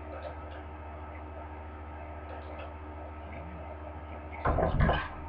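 Hand-crank cobbler sewing machine being worked, with faint irregular ticks over a steady electrical hum. About four and a half seconds in there is a brief, loud clatter.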